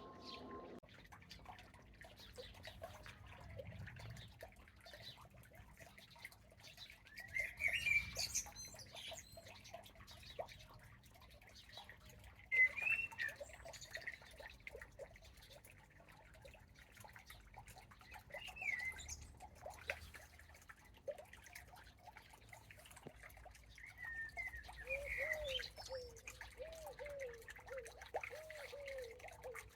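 Garden birdsong after rain: scattered short chirps from small birds, with a run of lower, repeated notes near the end. Faint ticks of water dripping from leaves run through it.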